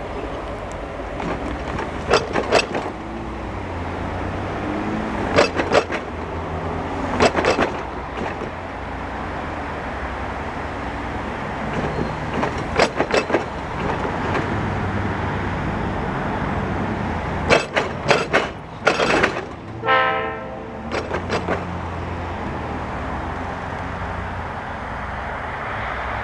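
Passenger train hauled by an EMD GP-9 diesel locomotive, its diesel engine giving a steady low rumble. Clusters of three or four sharp clicks come every few seconds, most densely about eighteen seconds in. A brief pitched tone sounds about twenty seconds in.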